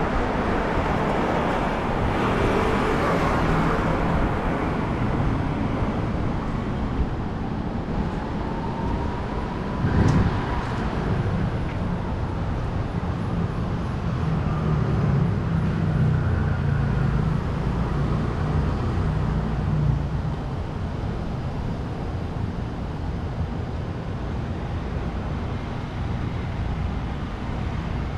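Street traffic: vehicles passing along a city road, with a low engine rumble building in the middle as a heavier vehicle goes by. A single sharp knock about ten seconds in.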